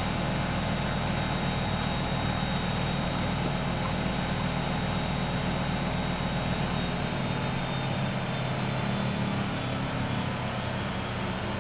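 Privileg 370 S washing machine running with a steady motor hum and drum noise. The deepest part of the hum drops away about seven seconds in.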